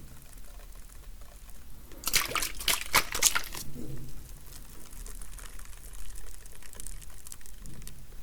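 Close-miked wet ASMR trigger sounds: liquid worked by hand near the microphone, with a cluster of crisp crackling clicks about two seconds in and softer scattered clicks after.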